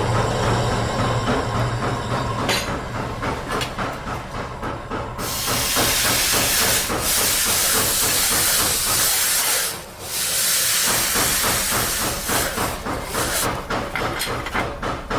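Forge workshop machinery: a fast, dense mechanical clatter throughout, with a loud hiss from about five seconds in that cuts out briefly near ten seconds.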